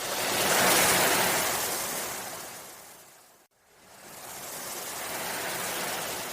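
Ocean waves washing in: two swells of surf, each rising and then fading away, with a brief sudden dropout between them about three and a half seconds in.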